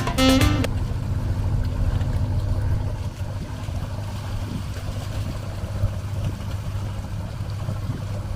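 A boat's engine running steadily as a low drone, with wind and water noise over it. A saxophone jazz tune cuts off less than a second in.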